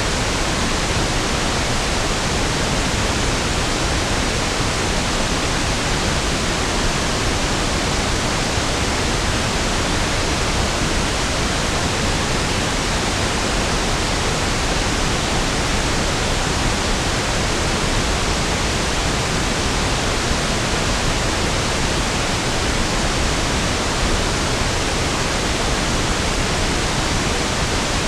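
Steady pink noise: an even, unchanging hiss with equal energy per octave, smoother and deeper than white noise.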